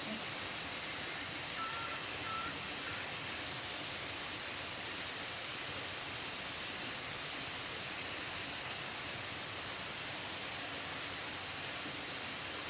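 A steady, even background hiss with no breaks, brightest in a high band. There are two short faint chirps about two seconds in.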